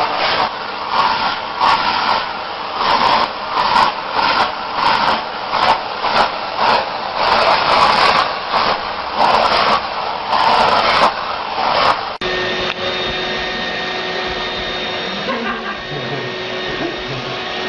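Rhythmic swells of hissing noise, about one and a half a second. Twelve seconds in, a sudden cut gives way to a vacuum cleaner running steadily with a humming motor whine.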